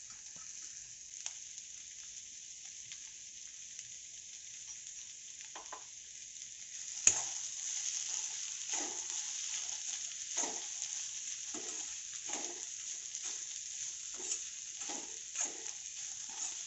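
Sprouted moth beans (matki) sizzling in oil and spice masala in a kadhai as they are stirred: a steady sizzle, one sharp knock about seven seconds in, then regular stirring strokes about once a second.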